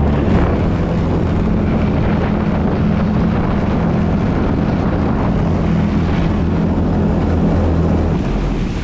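Aquanami JetAngler jet kayak's motor running steadily under way, a constant low drone with wind and water noise over the microphone.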